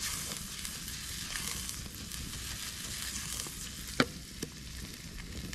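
Chopped onions sweating in butter in a skillet over a campfire, with a steady sizzling hiss. A single sharp click stands out about four seconds in.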